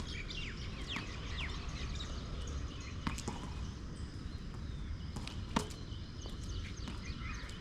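Three sharp knocks about two seconds apart over a steady low background noise, with short bird chirps in the first second or so. The knocks are most likely a tennis ball being struck or bounced during service play.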